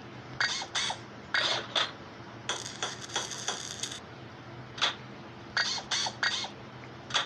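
Small metal parts and tools clinking and clattering during suspension work: separate sharp clinks, with a quick run of rattling clicks lasting about a second and a half near the middle.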